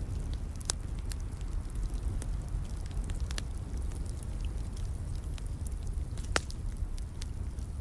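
Wood fire crackling in a fireplace: scattered sharp pops and snaps over a steady low rumble, with a louder pop about six seconds in.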